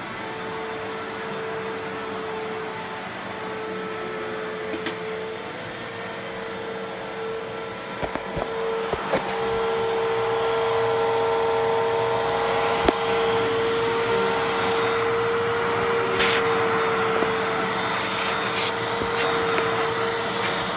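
2001 Fantom Fury Limited Edition vacuum cleaner running, its motor holding a steady high whine over a rushing of air. A few sharp clicks come about eight to nine seconds in and again near thirteen seconds, and the running gets louder from about ten seconds in.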